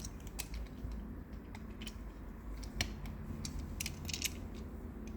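Scattered light clicks and ticks of a metal-bodied model fire truck being handled, its stiff, old snorkel boom being turned around on its turret. A faint steady low hum runs underneath.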